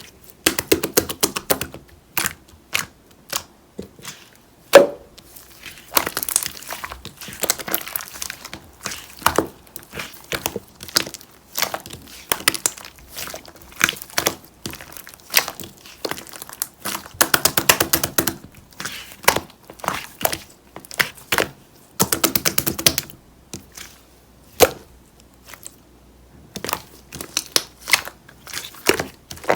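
White slime being squished and pressed by hand: quick runs of sticky clicks and crackles with short pauses between them, and one louder pop about five seconds in.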